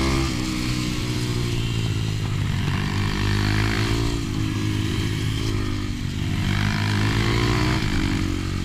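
Pit bike engine running hard, its pitch climbing twice as the throttle opens and dropping back in between.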